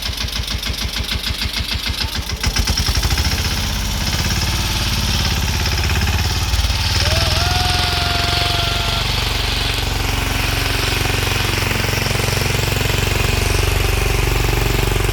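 Tractor diesel engine chugging in slow, even beats, then revved up about two and a half seconds in and held at high revs under load as the stuck tractor tries to pull free. A brief pitched tone rises and holds for a couple of seconds near the middle.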